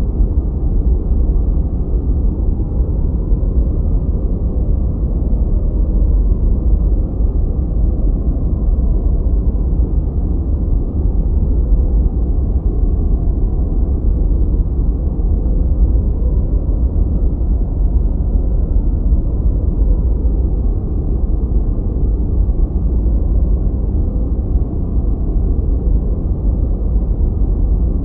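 Continuous generated noise for focus: a steady, even rumble with most of its energy deep in the bass and nothing above about 2 kHz, so it sounds darker than true white noise, more like brown noise.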